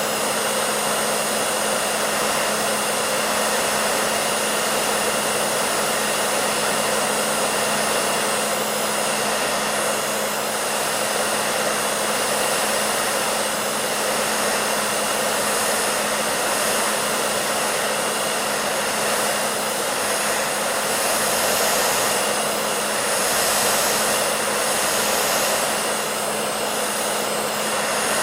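Hair dryer running steadily: an even rushing blow of air with a steady motor hum under it, swelling slightly a few times near the end.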